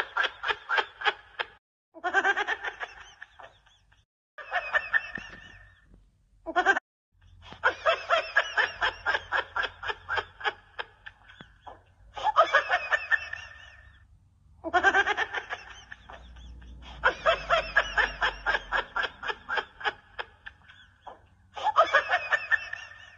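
A person's laughter in repeated bouts of rapid, pulsing cackles, about four pulses a second, each bout a few seconds long with short breaks between.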